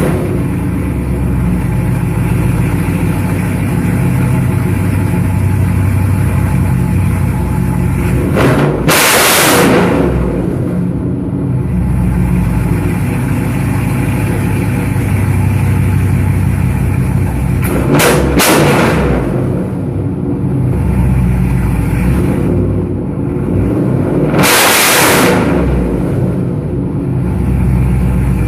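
Chevrolet Trailblazer SS's 6.0-litre LS2 V8 idling through a freshly built true dual exhaust with a 3-inch X-pipe and Dynomax Race Bullet mufflers. The throttle is blipped three times, at about nine, eighteen and twenty-five seconds, each time rising briefly before dropping back to idle.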